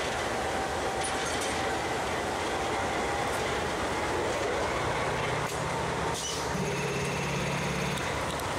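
A diesel-hauled grain train, led by a 442 class and a CFCL Australia locomotive, rolls slowly past with a steady rumble of engines and wheels on rail. Faint thin wheel squeals ring over it, and a low engine note comes up about five seconds in.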